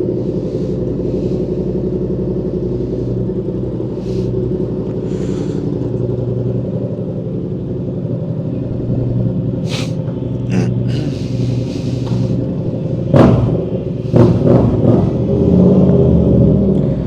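Motorcycle engine running steadily under way, with wind noise on the rider's microphone. There are several loud bursts of noise about thirteen to fifteen seconds in.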